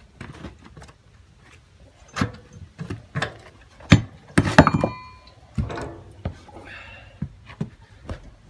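Metal parts and tools being handled in a workshop: a string of knocks and clanks. The loudest comes about four and a half seconds in, with a short metallic ring.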